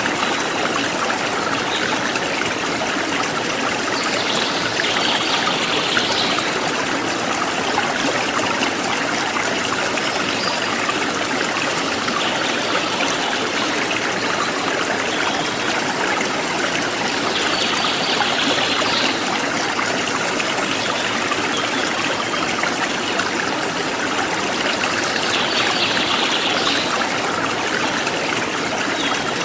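Forest stream flowing steadily, an even rushing and trickling of water. Three brief, higher-pitched flurries stand out over it, about 5, 18 and 26 seconds in.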